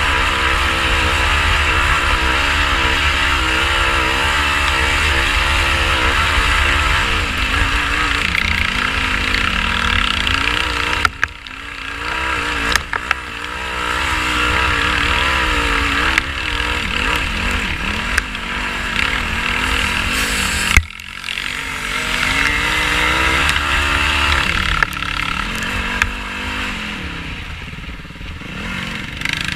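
Yamaha YFZ450R sport quad's single-cylinder four-stroke engine running under load while riding off-road, its pitch rising and falling with the throttle. The throttle is chopped sharply twice, about eleven and twenty-one seconds in, and the engine then pulls back up.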